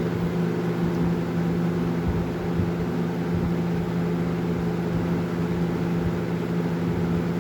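20-inch Lakewood box fan running steadily on high speed: a constant rush of air with a steady hum. Its blades and grille are clogged with dust.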